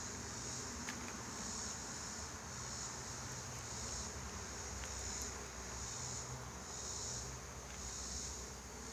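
A high, pulsing insect chorus that swells and fades about once a second, with a low steady rumble beneath it.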